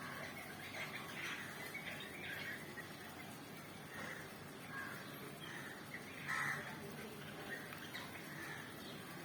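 A group of birds calling and chirping over one another in short, irregular calls, with one louder call about six and a half seconds in.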